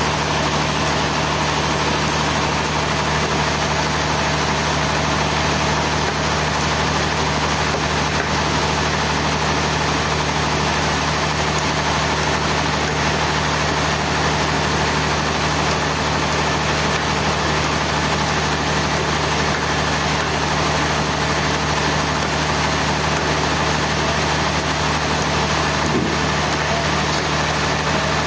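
Sawmill machinery running steadily: a constant low engine or motor hum under a dense mechanical drone, with no change in pitch or speed.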